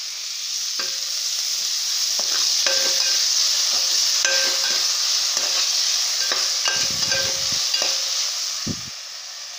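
Chillies, garlic and spring onion frying in oil in a metal pan, sizzling steadily, while a spoon scrapes and clicks against the pan as tomato ketchup is stirred in. The sizzle goes quieter near the end.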